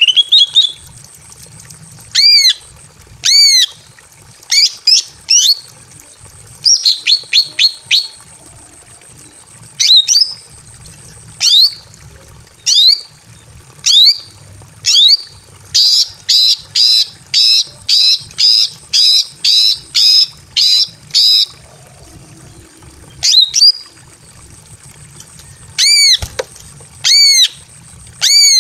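Female greater green leafbird (cucak ijo) in breeding condition, calling for a male: loud, sharp, arched call notes, given singly and in short clusters, with a fast run of about a dozen near the middle.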